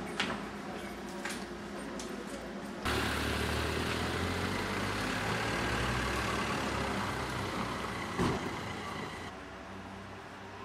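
A motor vehicle engine running close by with a steady low hum, cutting in abruptly about three seconds in after a few light clicks and dropping away about nine seconds in.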